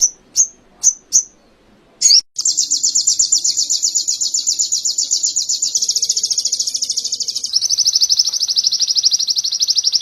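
Crimson sunbird (sogon) singing canary-style song: four short high chirps, a sharp upswept note about two seconds in, then a long, fast trill of rapidly repeated high notes that shifts pitch twice.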